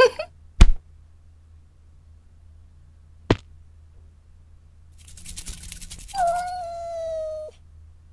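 A cat meowing once near the end: a single held call of over a second that falls slightly in pitch. Earlier there is a loud thump under a second in, the loudest sound here, and a sharp click a little after three seconds.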